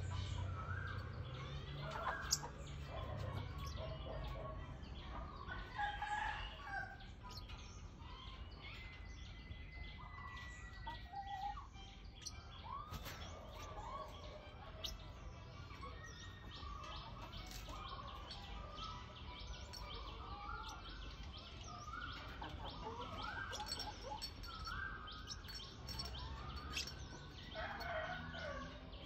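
Birds chirping and calling: many short chirps rising and falling in pitch, with small clicks among them and a low rumble in the first few seconds.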